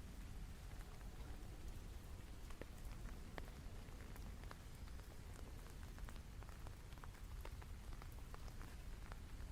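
Steady rainfall, many small drop ticks scattered through a soft, even hiss over a low rumble.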